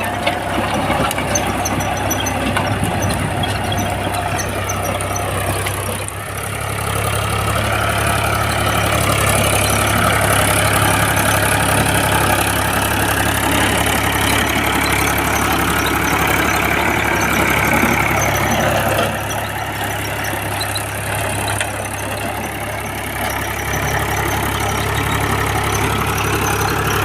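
Powertrac tractor's diesel engine running steadily. It grows louder a few seconds in and eases off again about two-thirds of the way through.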